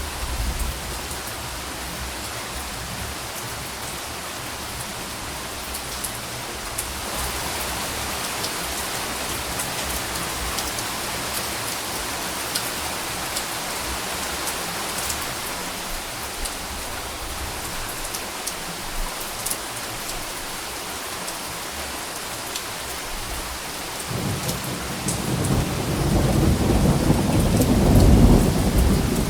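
Steady rain falling, with single drops ticking through it. Near the end a low rumble of thunder builds and grows loud.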